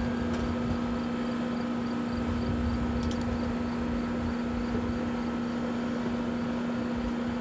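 Steady mechanical hum: a constant low drone that holds one pitch throughout, over an even background noise.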